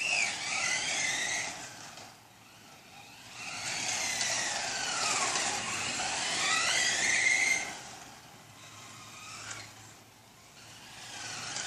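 Several 1/10-scale RC F1 cars racing, their motors whining in overlapping pitches that rise and fall as the cars speed up and slow. The whine is loudest as they pass in the first two seconds and again from about four to eight seconds in, fades between, and swells again near the end.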